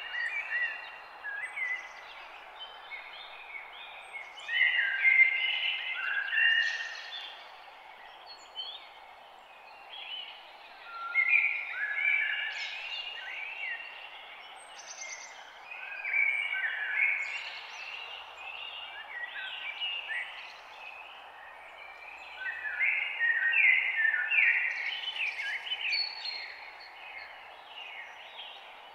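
Morning birdsong: several songbirds singing in phrases of short, quick, falling whistled notes that come in bursts every few seconds, over a faint steady background hiss.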